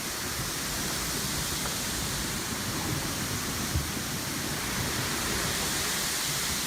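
Steady rushing noise of wind and water at sea around a sailing boat, with a faint thump about four seconds in.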